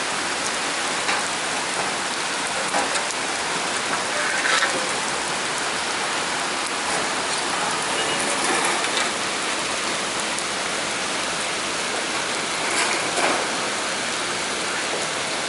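Heavy downpour: steady hiss of rain falling on surfaces, with a few louder splashes and drips now and then.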